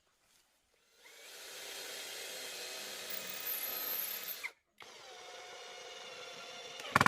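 Electric power drill running in two bursts: a steady whine for about three seconds, then after a short pause a second, quieter run. A sharp knock near the end is the loudest moment.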